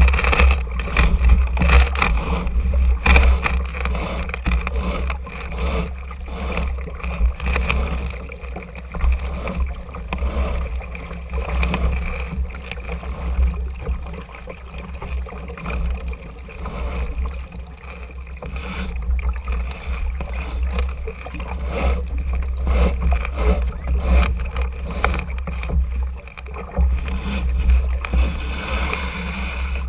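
An RS Tera sailing dinghy under way: water splashing and slapping against its small hull over a steady low rumble, with many short knocks and ticks throughout.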